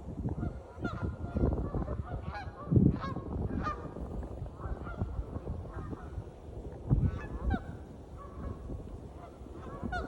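Canada geese honking, many short calls at irregular intervals, some overlapping. A few low thumps sound underneath, the loudest about three seconds in.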